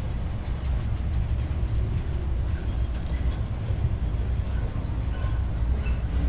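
Freight train rolling past: a steady low rumble of wheels on the rails, with faint short high squeaks now and then.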